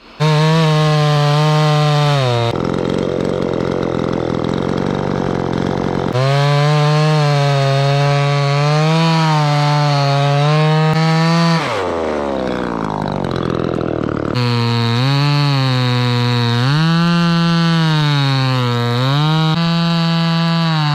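Chainsaw running at high throttle, its pitch wavering and dipping as it works through wood. About twelve seconds in it eases off and then revs back up.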